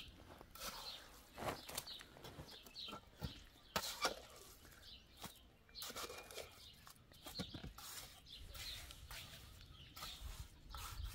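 Faint scattered bird calls, with occasional light clicks and knocks at irregular times.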